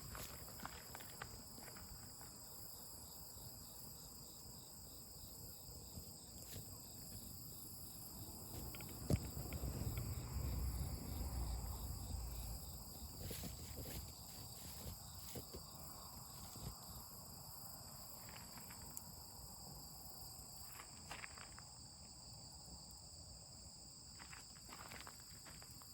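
Insects chirring steadily in high-pitched bands, with scattered small clicks and crackles throughout, and a low rumble that swells for a few seconds about nine seconds in.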